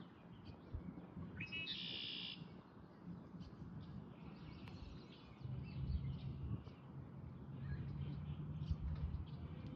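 Barn swallow chirping: one loud buzzy call about two seconds in, then scattered faint high chirps. A low rumble runs underneath and grows louder in the second half.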